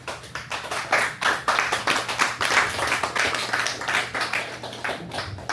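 Audience applauding, many hands clapping at once, dying down toward the end.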